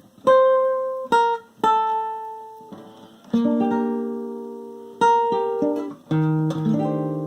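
Plucked string instrument playing an instrumental passage of the song between sung lines: a handful of picked notes and chords, each struck sharply and left to ring and fade.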